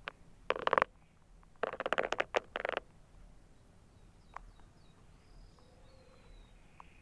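A canary singing in bursts of rapid rattling notes: a short burst about half a second in, a longer one from about one and a half to three seconds in, then fainter thin high notes.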